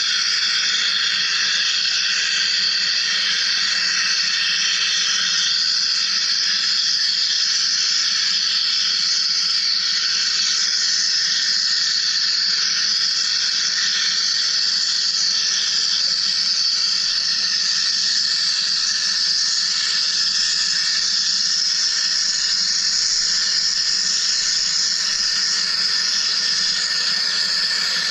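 Wire EDM machine cutting, a steady high-pitched hiss with faint steady tones in it.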